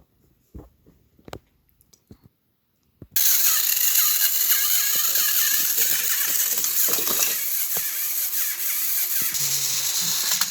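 A few light handling clicks, then about three seconds in battery-powered toy train motors switch on and run with a steady whirring gear rattle.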